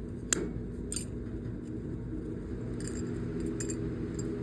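Light metallic clicks and clinks of hydraulic pump parts and tools being handled: a sharp click about a third of a second in, another a second in, and a small cluster around three seconds in, over a steady low hum.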